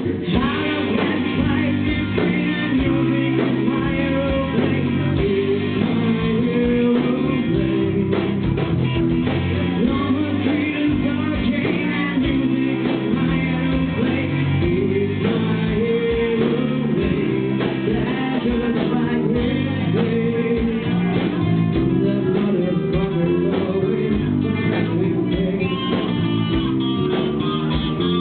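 Live rock band playing a song: female lead vocals over electric guitar, bass guitar, keyboard and drums.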